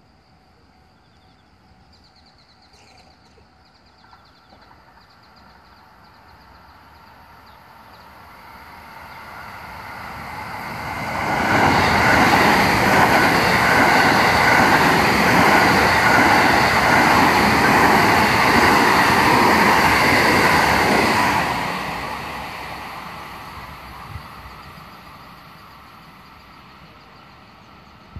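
A JR West Special Rapid electric multiple unit approaching, passing close by at speed and fading away, its wheels rumbling and clattering over the track. It builds up slowly, is loud for about ten seconds while the cars go by, then dies away over several seconds.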